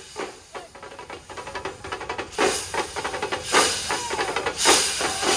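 A large drum troupe playing quick strokes that grow louder, with a held high tone coming in about four seconds in.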